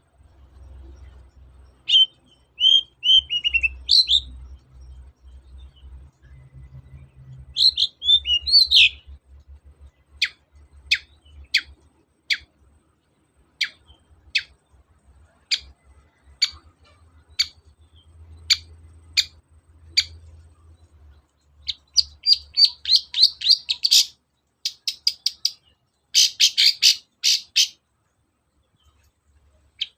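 Long-tailed shrike (cendet) singing. It gives short chirping phrases, then a run of sharp, downward-sweeping single notes about once a second, then fast, scratchy chattering bursts near the end.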